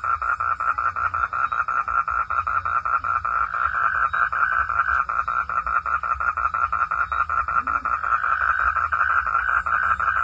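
Frog chorus calling steadily in a rapid, even pulsing of about ten pulses a second, with a low rumble underneath.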